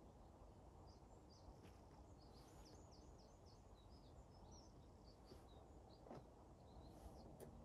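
Near silence outdoors: a faint low rumble, with a small bird singing a quick run of short, high chirps through the middle. A few faint taps come near the start and near the end.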